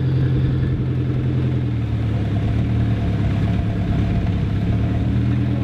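BMW S63B44 4.4-litre twin-turbo V8 running at a steady idle through a very short exhaust, its pitch dropping slightly about two seconds in.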